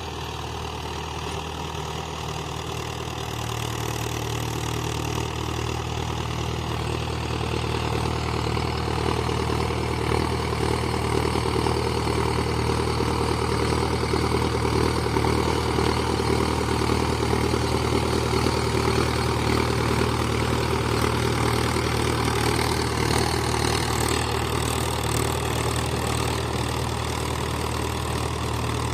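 Tractor diesel engine running steadily, likely a Mahindra 575 DI working a rotavator. It grows louder over the first ten seconds or so, then holds an even note.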